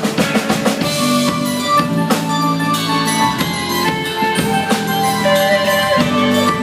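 Live instrumental band of electric guitar, keyboard, electric bass and drum kit playing held chords over a steady drum beat.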